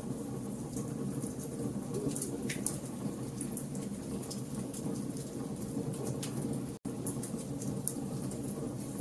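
Wood fire burning: many small sharp crackles and pops over a steady low rumble of flames. The sound drops out for an instant about two-thirds of the way through.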